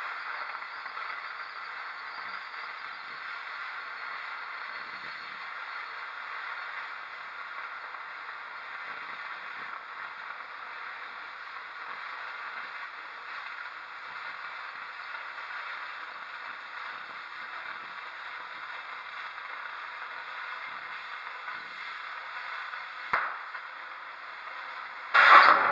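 Electric arc welding on the steel backhoe boom, laying a continuous bead with a steady crackling sizzle. A sharp click comes near the end, then a much louder burst of noise.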